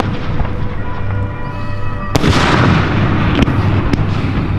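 Fireworks shells bursting overhead at close range: a loud bang about two seconds in, followed by a rushing hiss that trails away, and two sharper cracks near the end.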